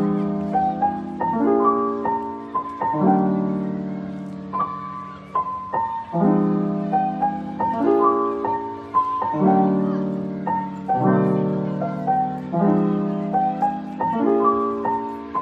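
Background piano music: chords struck about every second and a half under a melody, each note fading after it is struck.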